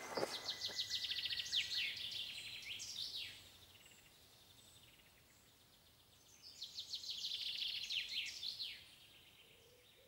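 A songbird singing two phrases, each a rapid high trill ending in a few down-slurred notes, about three seconds long and a few seconds apart.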